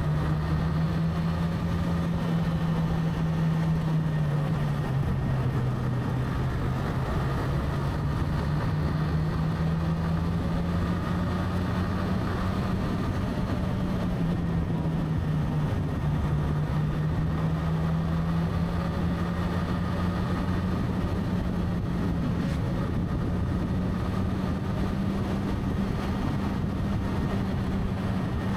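Motorcycle engine running at a steady cruise, its pitch drifting gently up and down as the speed changes.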